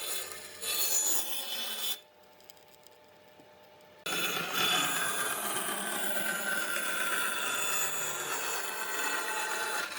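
Abrasive rubbing on wood, like sanding or rasping, with an abrupt quiet gap of about two seconds near the start before the rubbing resumes steadily.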